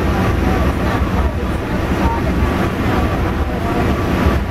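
A passenger train running along the track, heard from a coach window: a steady loud rumble of the moving train with a gusty, uneven low end from the rushing air.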